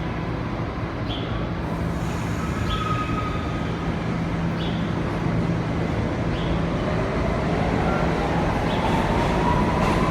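A bird chirps briefly and repeatedly, about once every two seconds, over the steady rumble of a subway station. From about seven seconds in, a rising whine grows louder as a subway train approaches.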